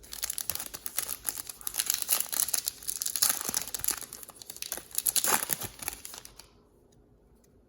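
Foil trading-card pack wrapper being torn open and crinkled in the hands for about six and a half seconds, a dense crackle that stops near the end.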